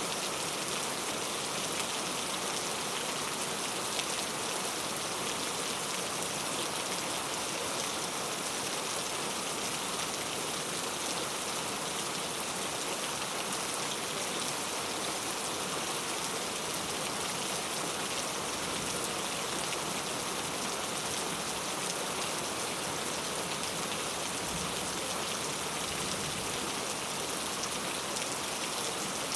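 Heavy rain falling steadily on hard street surfaces, an even hiss of drops.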